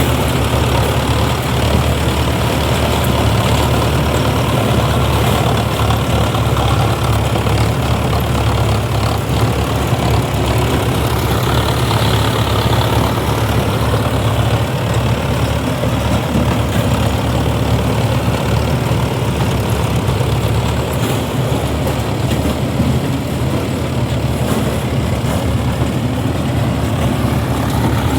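Tractor diesel engine running steadily, a low drone with a rougher haze of mechanical noise over it.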